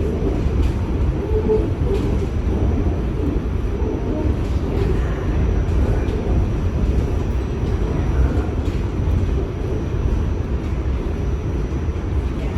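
New York City subway train running between stations, heard from inside the car: a steady low rumble of wheels on rail, with occasional faint clicks.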